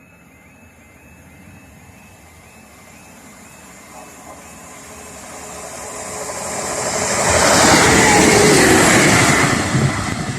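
A train passing the level crossing: rushing noise builds over several seconds to a loud peak about eight seconds in, with a falling engine note, then begins to fade. A faint repeating warble, the crossing's warning alarm, fades out in the first few seconds.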